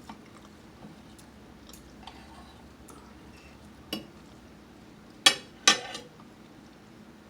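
Cutlery clinking against a plate: a few light taps, then two loud sharp clinks about half a second apart with a short ring, near the end.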